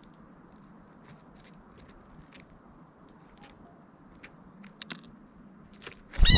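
Scattered faint taps and clicks of birds, then near the end a loud bird call with a bending pitch lasting about half a second.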